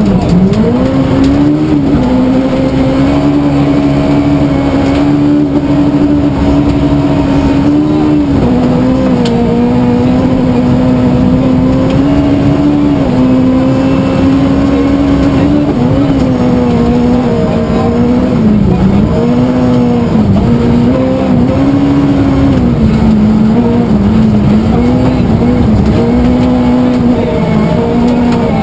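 Suzuki Swift rally car's engine running hard at high, fairly steady revs. The pitch dips briefly and climbs back every few seconds as the driver changes gear or lifts off.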